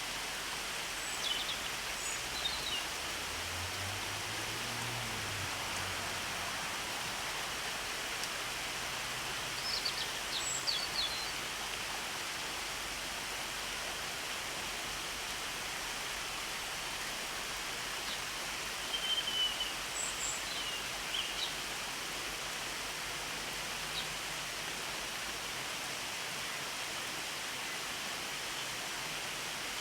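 Steady hiss of rain, with a few short, high bird chirps in three brief clusters: near the start, about a third of the way in, and about two thirds in.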